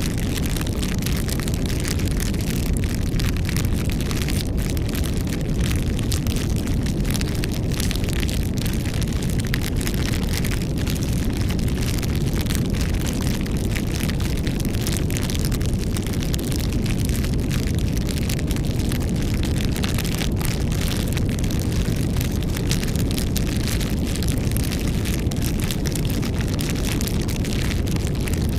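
Campfire burning steadily, a low roar of flames with frequent small wood crackles and pops throughout.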